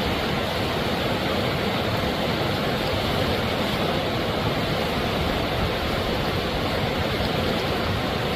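Steady rush of flowing river water, an even hiss-like noise without change.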